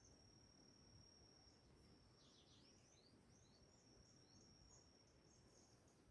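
Faint birdsong: a run of quick high chirps and short downward-sliding notes starting about two seconds in, over a steady thin high-pitched tone.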